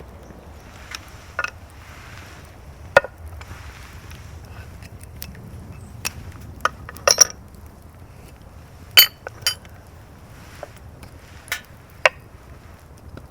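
Camp cookware and utensils clinking and knocking: about a dozen scattered light clinks over a quiet background, the loudest about nine seconds in, ringing briefly.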